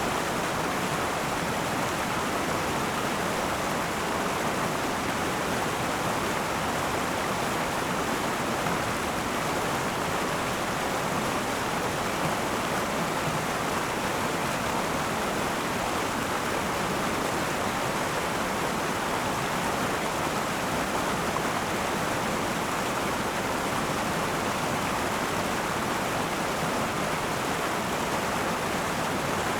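Akan River water running over rocks in a steady, even rush.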